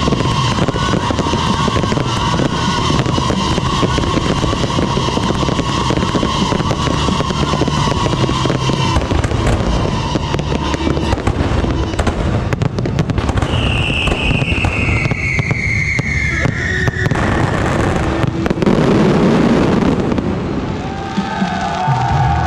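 Aerial fireworks going off in a dense, continuous barrage of bangs and crackling, with a whistle falling in pitch a little past the middle.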